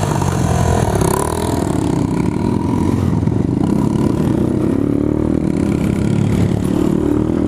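Motorcycle engine running under light throttle, its pitch rising and falling as it rides, over a steady low rumble.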